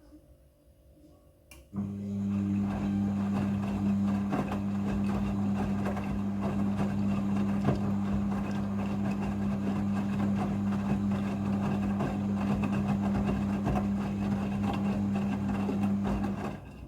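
Midea front-loading washing machine in its rinse cycle: a steady electrical hum with rushing water, as from the water inlet valve or drain pump. It starts abruptly about two seconds in and cuts off just before the end.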